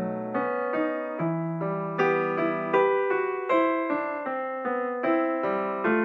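Background piano music: a gentle melody of single notes struck about every half second over held lower notes.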